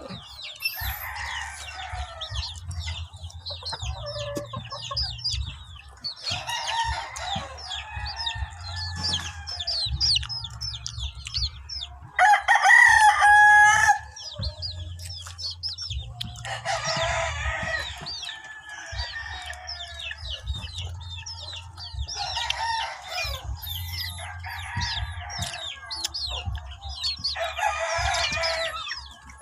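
Chickens clucking in repeated bouts, with a louder call about two seconds long near the middle, likely a rooster crowing.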